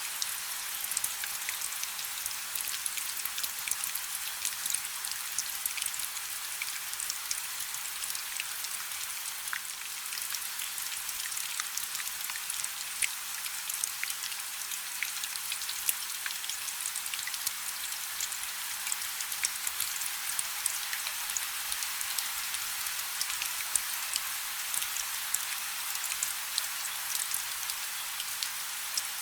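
Light rain falling steadily: a high, even hiss of many small drops, with crisp individual drop ticks scattered throughout and no low rumble.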